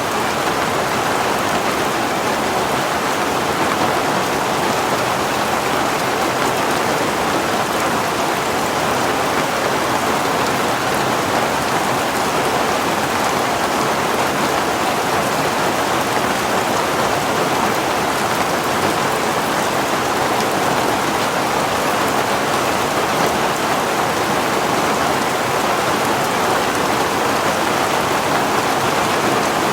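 Heavy rain falling steadily, an even hiss of downpour with no pauses or thunder.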